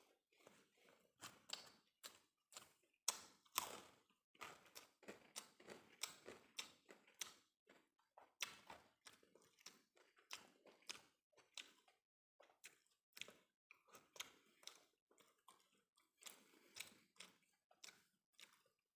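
Close-miked mouth sounds of a man chewing steamed rice with sausage: many short clicks and smacks at an uneven pace, with a couple of brief pauses.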